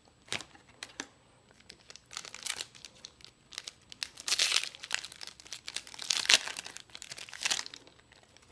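A trading card booster pack being torn open, its wrapper crinkling in several bursts, with a few light clicks near the start.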